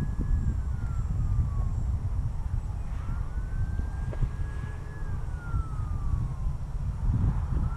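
Wind buffeting the microphone with a heavy low rumble, and over it the whine of an RC plane's brushless electric motor and propeller. The whine glides down in pitch near the start, jumps up about three seconds in, holds, then glides down again, and rises once more near the end.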